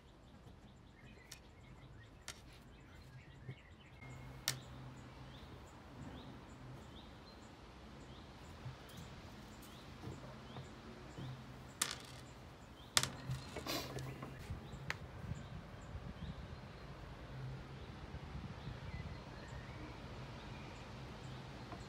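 Faint outdoor background with a bird giving a short high chirp over and over, about twice a second, through the first half. A few sharp clicks come around the middle as small chandelier screws and nuts are handled and wiped on a microfiber towel.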